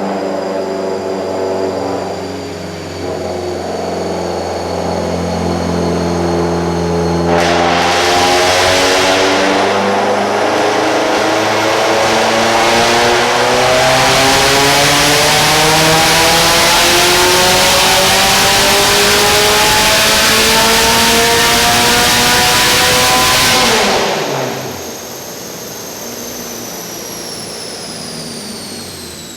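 Subaru WRX STI's turbocharged flat-four on a chassis dyno making a pull: the engine starts at a steady lower speed, and from about seven seconds in it gets much louder and its pitch climbs steadily for some seventeen seconds. It then lets off and drops back to a quieter steady run, with a high whine falling in pitch near the end.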